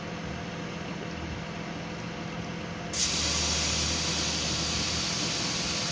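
Air hissing out of a car tire's valve stem, its valve pressed with the end of a tire gauge to let a little pressure out of an overinflated tire. A steady low hum runs first, and the loud, even hiss starts suddenly about three seconds in.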